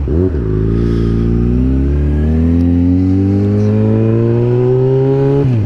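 Yamaha FZ6R's 600 cc inline-four through an aftermarket M4 exhaust, pulling steadily in one gear with the pitch rising slowly for about five seconds. The pitch dips briefly at the start, and sharply again near the end as the throttle is rolled off for a shift.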